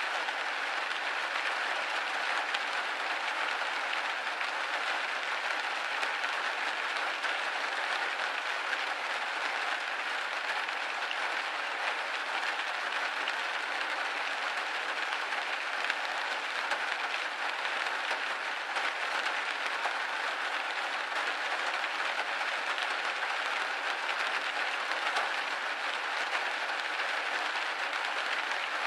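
Steady rain pattering on a window pane, a dense even patter of drops.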